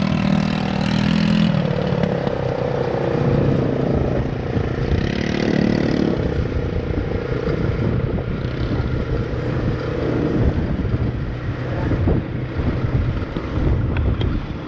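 ATV engine running steadily as the quad is ridden, with a heavy low rumble.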